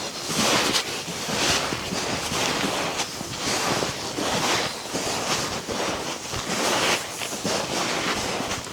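Strong wind of a snowstorm, a rushing noise that rises and falls in irregular gusts.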